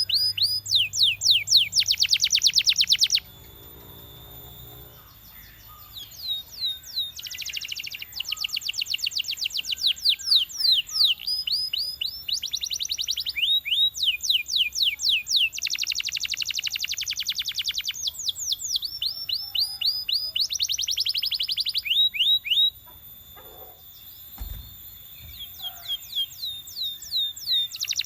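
Canary singing: phrases of quick, repeated down-slurred whistled notes alternating with very fast rattling trills, high-pitched, broken by two short pauses.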